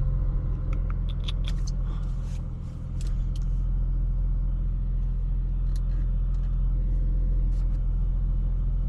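Audi S5 heard from inside the cabin while driving: a steady low engine and road rumble, dipping briefly about two and a half seconds in and then steady again, with scattered light clicks over it.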